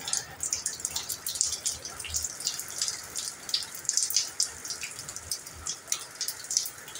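Light rain: raindrops and drips falling on wet concrete, an irregular patter of small ticks.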